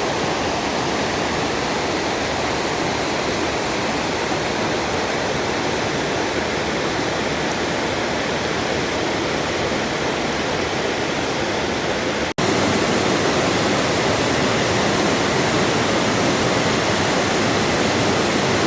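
Waterfall rushing: a steady, dense roar of falling water. After a momentary break about two-thirds of the way in, it comes back louder.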